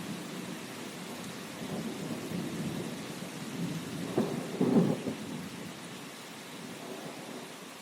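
Steady rain with low rolling thunder; a sharper crack of thunder rumbles out about four seconds in.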